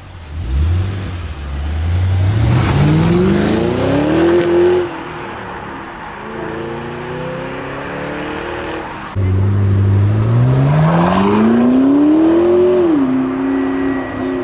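High-performance car engines accelerating hard, twice: each time the engine note comes in suddenly and climbs steadily in pitch for about four seconds, with the first cutting off sharply and the second dropping back to a steady note near the end.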